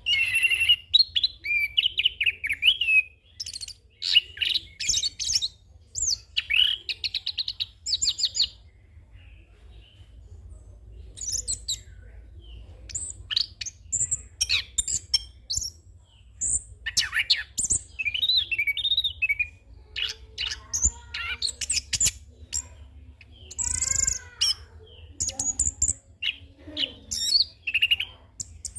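Chestnut-capped thrush (anis kembang) singing a long, varied 'rolling' song of rapid trills, chirps and whistled phrases, full of mimicked calls, with short pauses between bursts.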